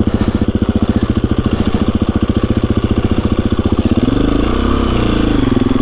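KTM 350 EXC-F single-cylinder four-stroke dirt bike engine chugging at low revs, each firing pulse distinct. About four seconds in the revs pick up, swell and settle into a smoother drone as the rider gives it throttle.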